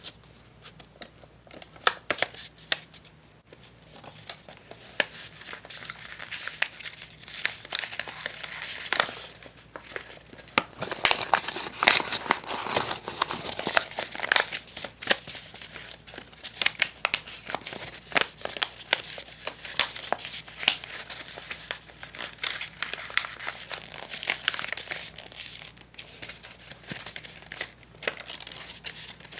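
A sheet of paper being folded and creased by hand, crinkling steadily with many sharp crackles, busiest in the middle stretch.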